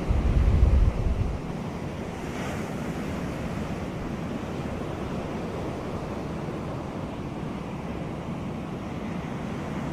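Sea surf washing on a beach: a steady wash of noise. About the first second is overlaid with a louder low rumble of wind buffeting the microphone.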